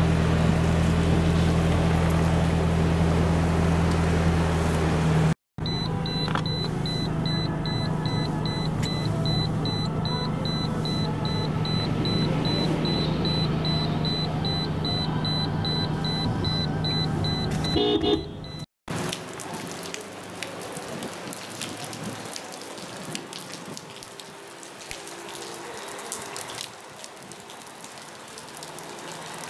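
A motor vehicle's engine running with a steady low hum. After a cut, a rapid, evenly pulsed high electronic beep sounds over the background. After a second cut, an even hiss of heavy rain and running water on a flooded street.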